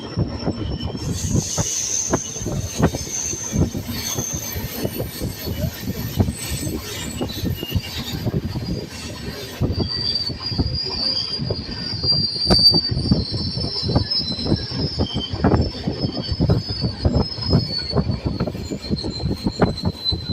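Train wheels running at speed on the rails, with a rapid, uneven clatter over the rail joints and a thin high squeal above it. The squeal drops a little lower in pitch about ten seconds in.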